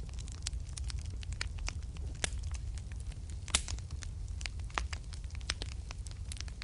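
Wood fire in a fireplace crackling, with irregular sharp pops of varying loudness over a steady low rumble of the flames. The loudest pop comes about three and a half seconds in.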